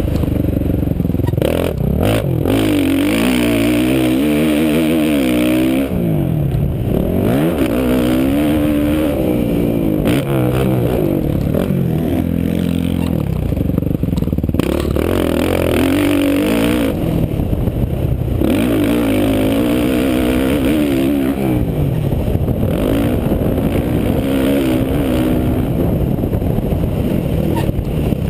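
Suzuki RM-Z450 four-stroke single-cylinder motocross engine, heard up close from an onboard GoPro, revving up and falling back over and over as the rider opens and shuts the throttle around a dirt track.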